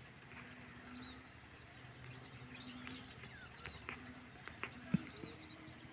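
Faint, scattered bird chirps over a steady thin high whine, with a couple of soft knocks about five seconds in.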